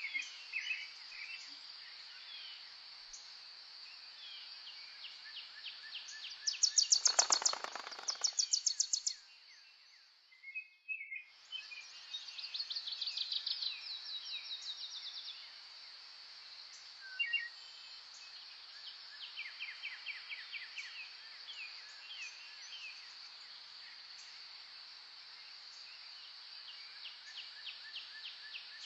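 Songbirds singing rapid trills and chirps over a steady high-pitched insect drone. The loudest is a fast pulsed trill about seven seconds in, repeated a moment later; around ten seconds the whole soundscape dips almost to silence for about a second before the birds and drone come back.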